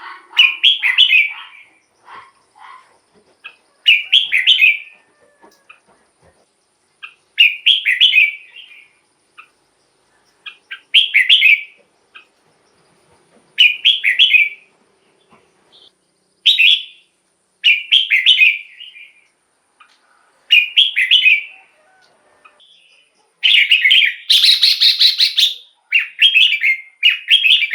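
Red-whiskered bulbul singing short, separate warbled phrases, about one every three seconds, with a louder, fuller phrase near the end.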